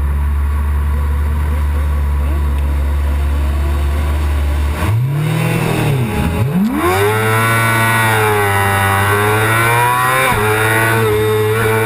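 Yamaha R6's 600 cc inline-four sport-bike engine heard from onboard, running with a low steady note for about five seconds. Then the revs sweep up, drop and climb again, and from about seven seconds in they hold high and waver under throttle.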